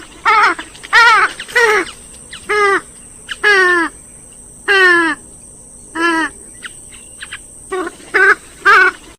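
Recorded calls of a swamphen-type rail: about a dozen loud, harsh, nasal calls, each dropping in pitch, given in an uneven series.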